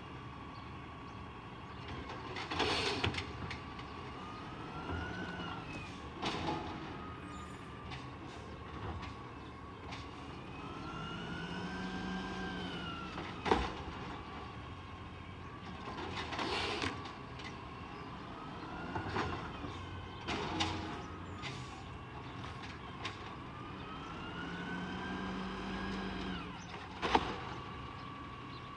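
Peterbilt 320 garbage truck running, a steady hydraulic whine over its engine. The whine and the engine note rise and fall together several times as the Amrep body's hydraulics cycle. Sharp clanks and bangs break in through it, about seven times.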